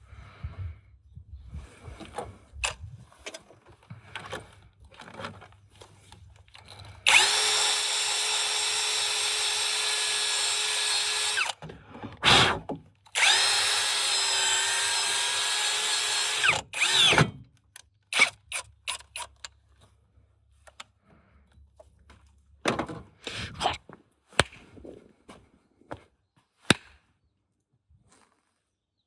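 Handheld power drill running in two steady bursts of about four seconds each, a short pause between them, with clicks and knocks of tools and parts being handled around them.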